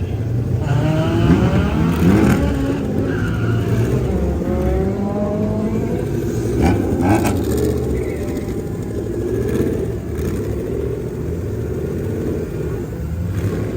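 Performance car engines revving hard over a low rumble, their pitch climbing and falling several times.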